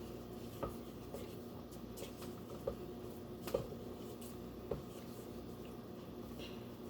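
Faint scraping of a spatula against the sides of a mixing bowl of cream cheese filling, with a few short, soft knocks.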